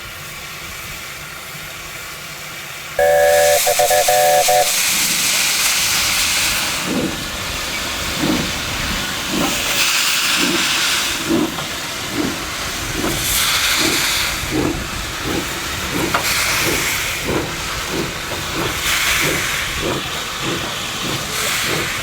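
Steam locomotive: a steady hiss of steam, then a short whistle blast about three seconds in. After that the engine starts off, its exhaust chuffs slowly quickening.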